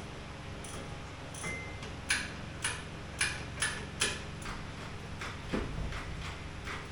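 A run of sharp metallic clicks, irregular and roughly two a second, over a steady low hum, made by work on the engine removal.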